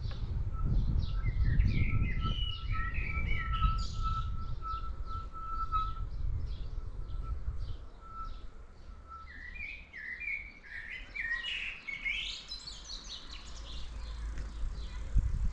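Several songbirds singing in garden shrubs and trees. One repeats a single note at a steady pitch about twice a second through the first half, while others sing quick chirping phrases that slide up and down. A low rumble of wind and riding noise on the microphone fades about halfway through.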